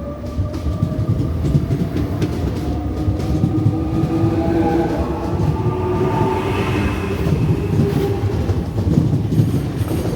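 Z 20900 double-deck electric train running on the RER C, with a steady rumble of wheels on track and several electric motor whines sliding slowly in pitch.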